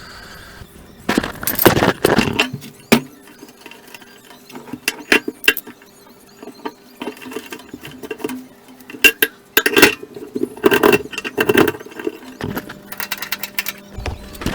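Ratchet tie-down strap being hooked on and tightened: short bursts of sharp clicking and clinking from the ratchet buckle and hooks, repeated several times.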